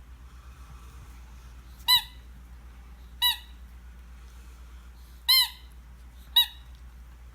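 Four short, high-pitched squeaks from a small dog at play, spaced a second or two apart, each with a quick rise and fall in pitch.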